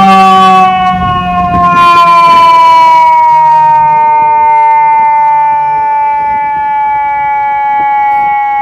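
Fire engine's mechanical siren slowly winding down, its pitch sliding steadily lower after being spun up just before.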